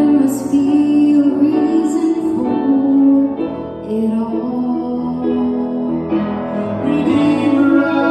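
Singing with instrumental accompaniment: a hymn-style song in long held notes.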